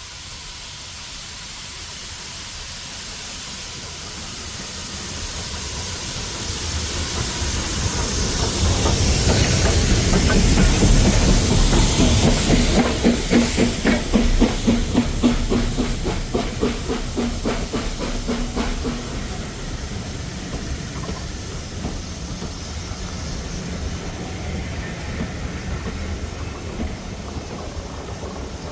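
Steam locomotive hauling a train past: the sound builds over several seconds to a loud hissing peak about halfway in, then a run of rhythmic clicks from the wheels and exhaust as the train goes by, settling to a steady rumble of passing carriages.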